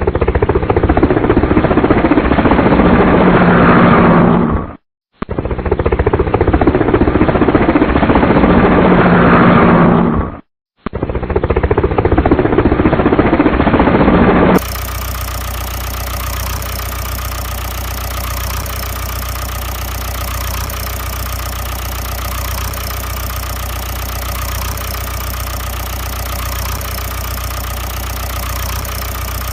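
Engine sounds: three loud stretches of an engine running, each cut off abruptly by a brief silence, then a steadier, quieter idling engine hum from about halfway through.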